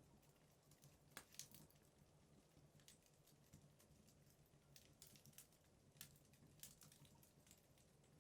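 Wood fire burning in a fireplace, faintly crackling with scattered irregular pops, a quick cluster about a second in and a few more near the middle and later.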